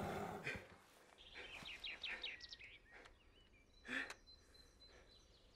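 Faint night woodland ambience: a quick run of bird chirps about a second and a half in and a few more near three seconds, over a faint steady high tone. Earlier, a loud sound dies away in the first half-second, and about four seconds in there is one short breathy rush of noise.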